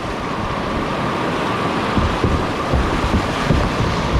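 Rushing river water around a kayak running a fast section of the river, a steady loud wash, with a few low bumps in the second half.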